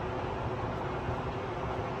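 Interior running sound of a Tobu 50090 series electric train's motor car at speed: a steady rumble of wheels on rail with a faint steady hum from the drive.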